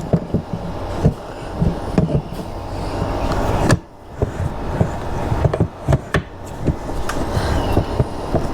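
Repeated knocks, clicks and rattles of a motorcycle saddlebag being handled and fitted onto its metal mounting bracket, over a steady low hum.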